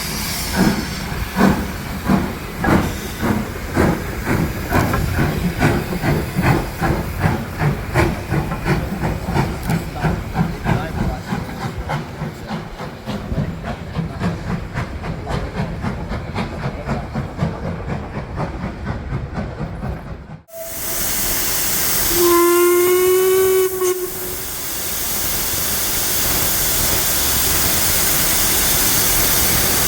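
A steam locomotive working, its exhaust beats chuffing in a regular rhythm that gets faster. After a sudden cut comes a steady hiss of steam, broken by one steam whistle blast of about two seconds, then the hiss carries on, louder.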